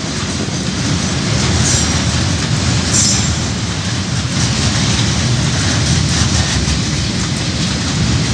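Container wagons of a KiwiRail coal train rolling past on the rails: a steady rumble of wheels and wagons, with two brief high wheel squeals about two and three seconds in.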